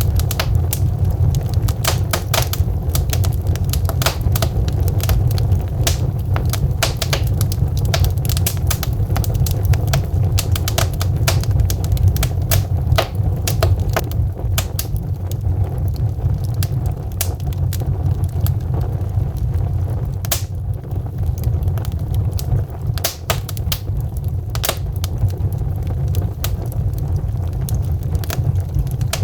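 Wood fire of burning logs crackling, with many irregular sharp pops and snaps over a steady low rumble.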